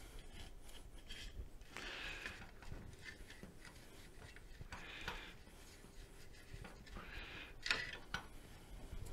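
Rubbing and wiping while cleaning scooter parts, in three short scrubbing strokes, the last the loudest.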